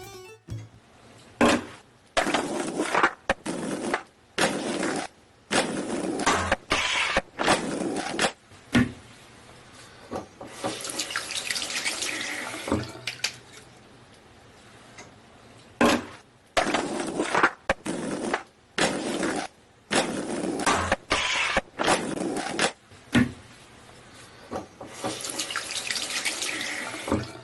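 Water running or spraying in many on-off bursts, most under two seconds, with two longer runs about ten seconds in and near the end.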